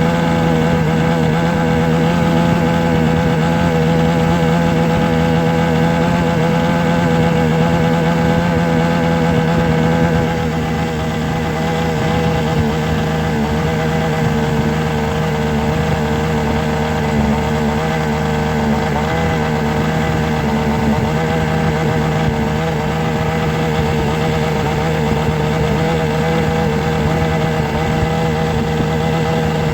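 A steady, machine-like drone, made of several held tones over a constant rushing hum, dipping slightly in level about ten seconds in.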